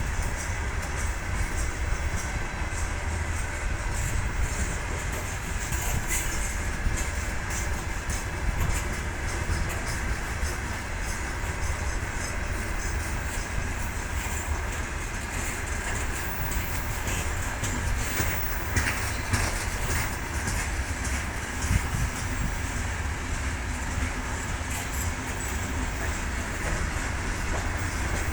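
Freight train rolling past with a steady low rumble, its wheels clicking over rail joints.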